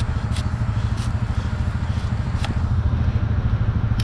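An engine running steadily at idle, with a pulsing low rumble. A few sharp clicks sound over it: one just after the start, one about a second in, one around two and a half seconds, and one near the end.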